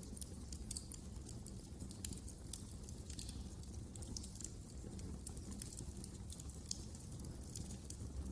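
Wood fire crackling in a fireplace: many irregular sharp pops and snaps over a low, steady rumble of the burning fire.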